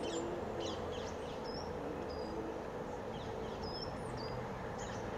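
Small birds chirping: short high calls and whistles, some sweeping downward, scattered over a steady low background hum.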